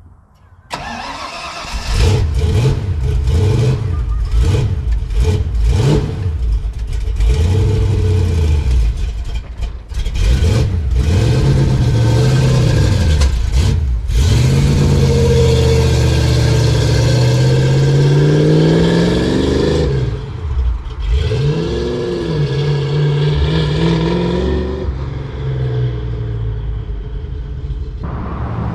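Cammed 5.0 V8 of a 1987 Ford Mustang GT fox body firing up about a second in and being blipped in quick, sharp revs. It then pulls away with a long rising engine note, revs again, and settles to a quieter steady run near the end.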